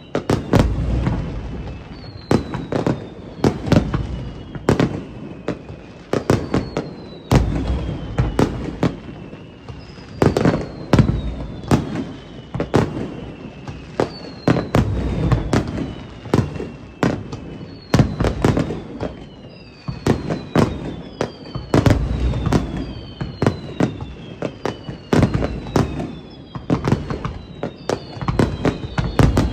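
Fireworks display: a continuous barrage of booming shell bursts and sharp cracks. Through it run repeated whistles that fall in pitch, several overlapping near the end.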